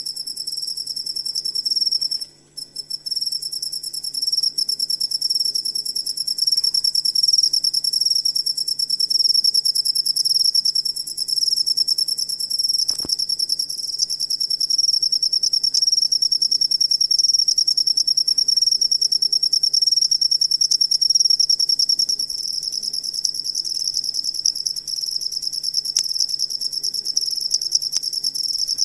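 A cricket trilling continuously in one steady high pitch, with a brief break about two seconds in.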